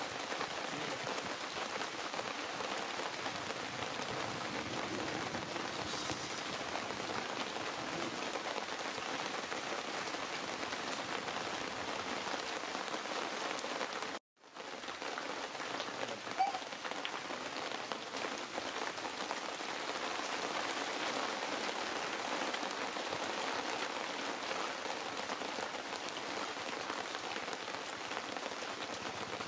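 Steady patter of rain falling on the ground and surroundings. It cuts out for a moment about halfway through.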